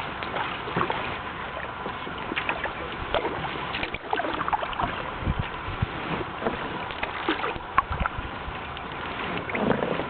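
Kayak paddle strokes in floodwater: the blade dipping and splashing, water dripping off it, with a few low thumps about halfway through.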